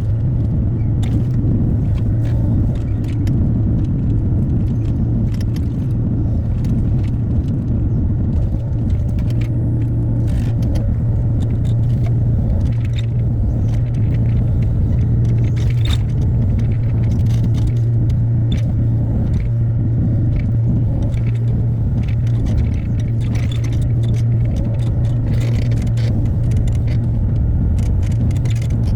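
Hyundai HX60A excavator's diesel engine running steadily at working speed, a constant low hum, with scattered clinks and scrapes as the bucket works rock and debris.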